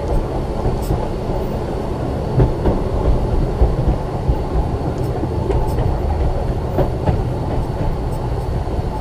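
Ex-Liverpool Corporation tram 869 rolling on its rails, its wheels rumbling steadily with scattered light clicks, as it runs downhill held in check by the brake.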